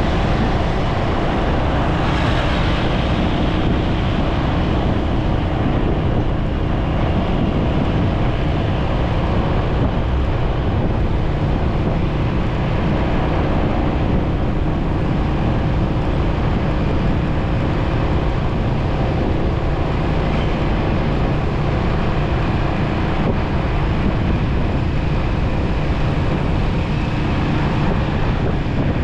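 Motorcycle riding along: steady wind rushing over the microphone with the engine and road noise running underneath.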